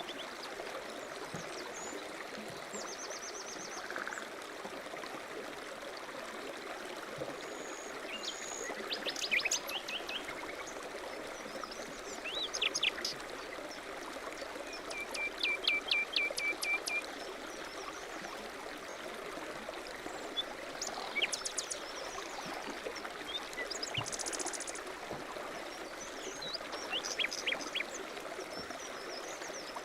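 A stream running steadily, with small songbirds calling over it in short chirps and trills now and then; the longest phrase is a run of quick repeated notes near the middle.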